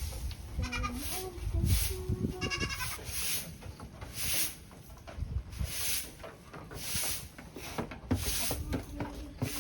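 A goat bleating: several short wavering bleats in the first few seconds and another near the end. Between them comes a regular swishing noise, about once a second.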